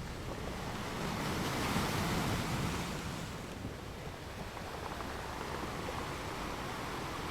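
Small waves washing onto a beach, a wave swelling about a second in and easing off by the middle, with a steady wash of surf underneath.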